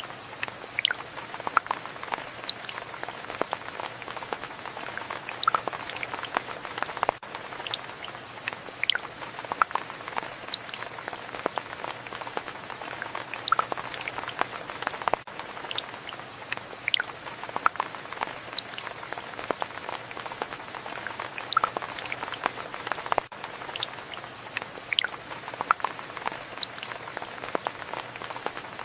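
Steady rainfall with many separate drops ticking and plinking irregularly over the patter. The same stretch repeats about every eight seconds.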